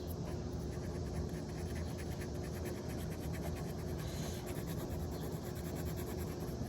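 Felt-tip marker scribbling on paper in rapid back-and-forth strokes, colouring in a drawing.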